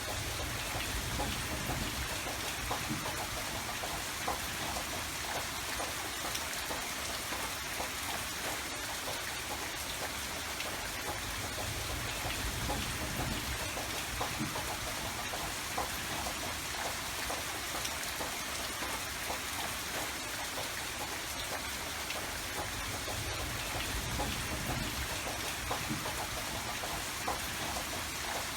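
Steady rain falling, with the patter of many individual drops and a soft low rumble underneath.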